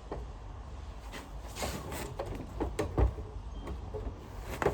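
Scattered clicks and knocks of Sanitaire vacuum cleaner parts being handled and fitted together, over a low steady rumble.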